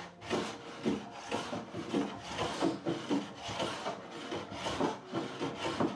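Hand sanding or scraping on a wooden door, in rhythmic back-and-forth strokes, about two to three a second.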